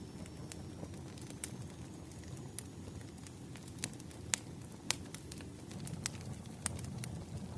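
Firewood burning: a steady low rumble with scattered sharp crackles and pops, about nine of them, the loudest a little past the middle.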